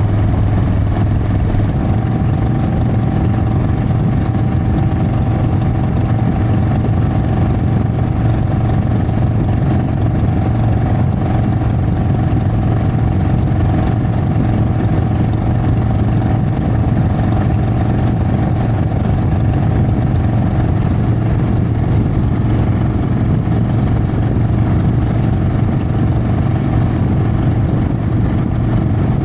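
Harley-Davidson Sportster's air-cooled V-twin engine running steadily at an even pitch.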